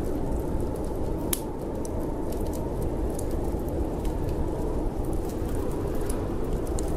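Wood fire crackling with scattered sharp pops, one louder pop about a second in, over a steady low rumble of storm wind.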